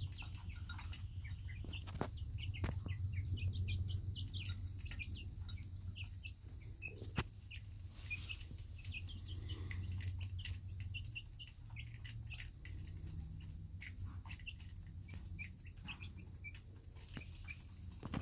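Small birds chirping over and over, short high chirps, over a steady low rumble, with a few faint clicks.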